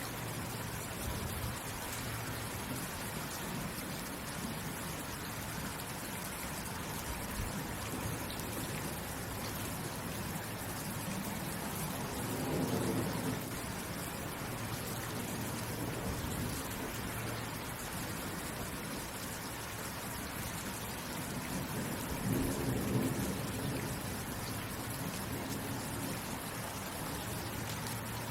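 Steady rain falling, an even hiss of drops. Twice, about twelve and twenty-two seconds in, a brief low rumble swells up over it.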